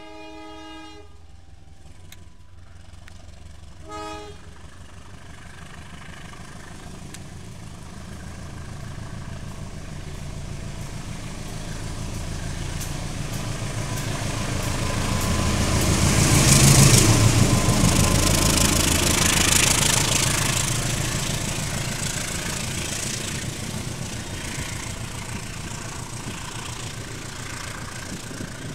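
Passenger train behind a CC201 diesel-electric locomotive sounding its horn, a blast of about a second and then a short toot about four seconds in. It then approaches slowly and passes close by, the locomotive's rumble building to its loudest a little past the middle before the coaches roll past on the rails and the sound slowly fades.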